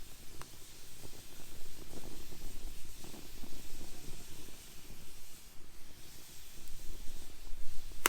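Wood fire burning in a fire pit, a steady hiss with soft flickering crackles and a sharp pop about half a second in.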